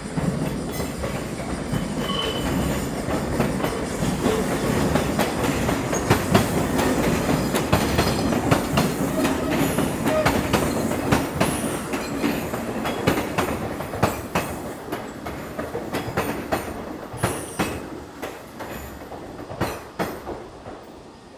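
Kintetsu commuter electric train passing over the station's points and rail joints, its wheels clacking rapidly with brief high flange squeals. The sound swells in the first few seconds and fades away over the last several.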